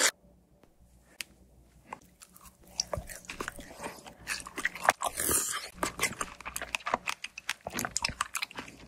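Close-miked biting and chewing of fresh strawberries: crunching clicks that begin after a quiet start and grow busier, with one sharp loud crunch about five seconds in.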